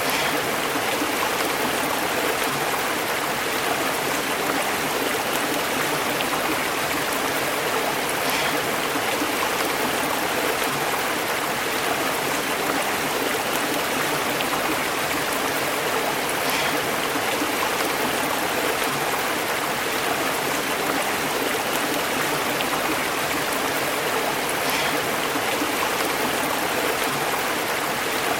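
A stream flowing steadily and burbling over rocks: an even, unbroken rush of running water.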